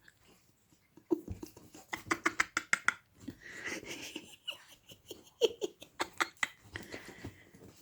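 A pet dog making funny noises: runs of quick, sharp clicks mixed with breathy sounds, starting about a second in, with a second run about six seconds in.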